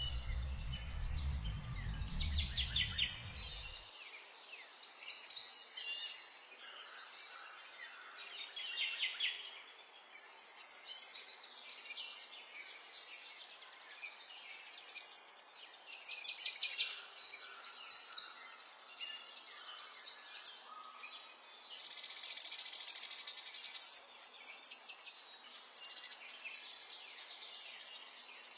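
Several small songbirds singing over one another, with overlapping high chirps and fast trills. A low rumble underneath stops abruptly about four seconds in.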